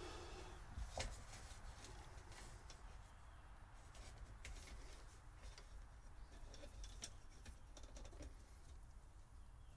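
Faint, scattered light clicks and rattles from hands working through a boat's old wiring, with one sharper knock about a second in.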